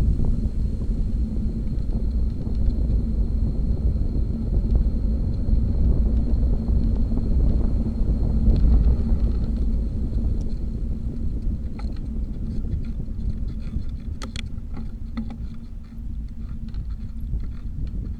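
Wind buffeting the microphone and road rumble while riding a bicycle, a steady low rumble that eases somewhat in the second half, when scattered light clicks start.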